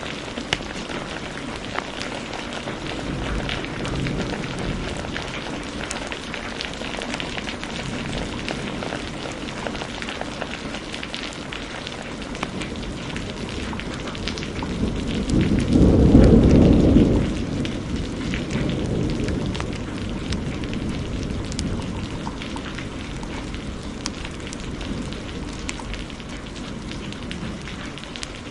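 Steady heavy rain with a wood fire crackling, and a roll of thunder that swells about halfway through, rumbles for a few seconds, then fades back into the rain.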